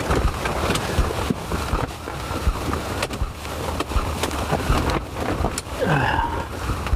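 Strong blizzard wind gusting against a Clam pop-up ice fishing shelter, its fabric walls buffeting and snapping in quick irregular slaps over a constant rush of wind. The shelter is catching the wind like a sail.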